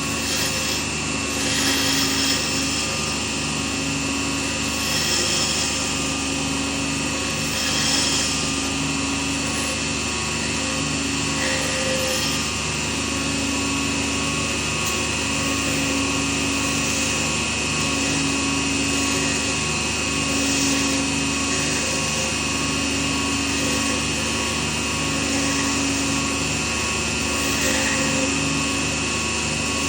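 Small lathe motor running steadily with a high whine and a regular low throb, about one swell every second and a half.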